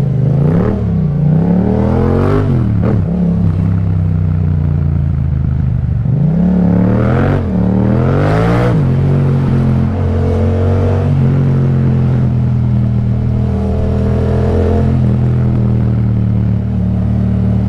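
Yamaha MT-07's parallel-twin engine through an Akrapovic exhaust, accelerating with revs rising and dropping through gear changes a few times early on and again about six to nine seconds in, then holding a steady cruise.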